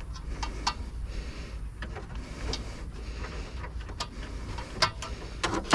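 Scattered clicks, scrapes and knocks of plastic and metal as the deflection yoke is worked loose from the neck of a CRT television tube by hand, over a low steady hum. The knocks are louder near the end.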